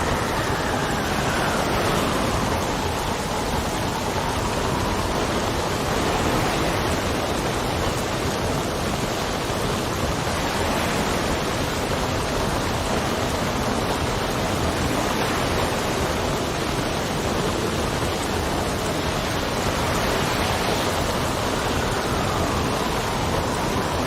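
Steady rain with wind blowing over it. The wind's pitch slowly rises and falls in gusts, most clearly near the start and again near the end.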